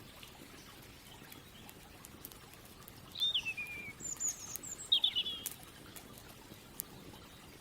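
A songbird sings a few short whistled phrases about halfway through, including one that falls in pitch, over soft outdoor background. Scattered sharp clicks, the crackle of a campfire, are heard here and there.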